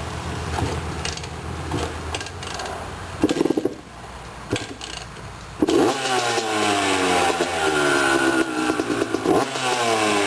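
2002 Yamaha YZ250 two-stroke engine being kick-started from cold on choke: two kicks, then it catches about six seconds in and runs, its pitch rising and falling as the throttle is blipped.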